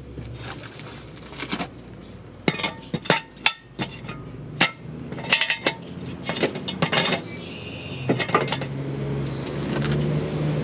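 Metal clanking and knocking from steel jack stands being handled and set under a jacked-up car, a run of sharp hits over several seconds.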